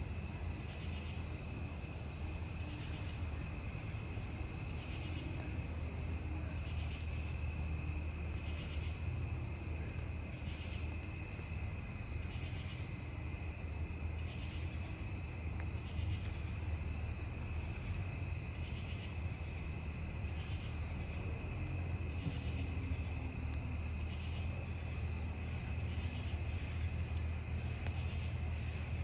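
Crickets chirping steadily in an unbroken chorus with a regular pulse, and fainter high-pitched insect chirps every couple of seconds. A steady low rumble from the campfire runs underneath.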